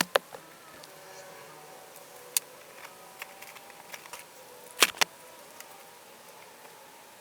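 A few sharp knocks and clicks of gear being handled, the loudest a pair close together about five seconds in, over the faint steady hiss of light rain.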